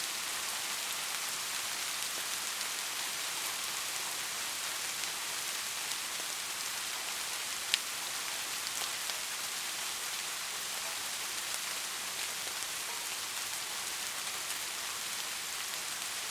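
Steady gentle rain, a constant hiss with scattered individual drops, one sharper drop tap about halfway through.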